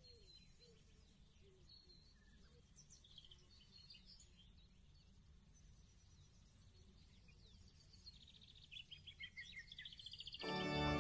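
Faint birdsong, scattered high chirps and short trills, over a low steady hum. Music starts suddenly just before the end.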